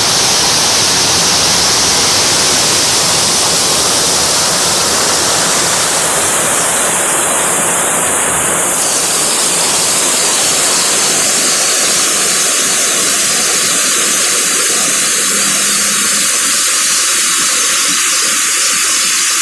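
Rushing water making a steady, loud, even roar with no breaks or distinct splashes.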